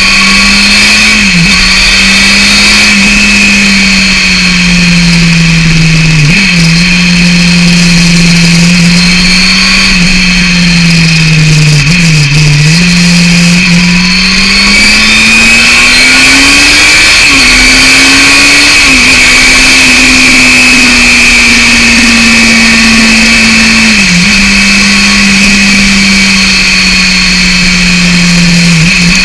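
Yamaha FZR 600's inline-four engine through a BOS aftermarket exhaust, running hard while being ridden. Its note climbs and falls with the revs and drops briefly at each of several gear changes.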